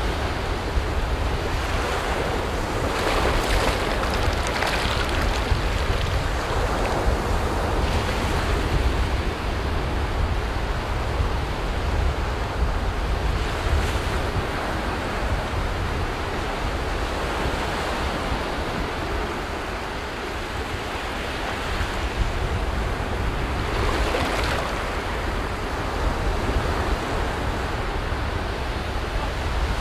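Ocean surf breaking on a beach: a continuous wash of waves, swelling as a wave breaks every several seconds, over a steady low rumble of wind on the microphone.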